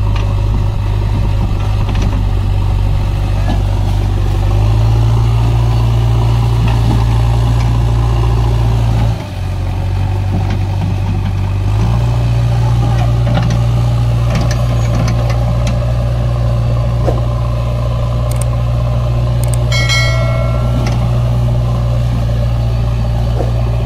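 Heavy diesel engine running steadily with a deep low hum; its note steps up about four seconds in, dips briefly near nine seconds, and picks up again a few seconds later.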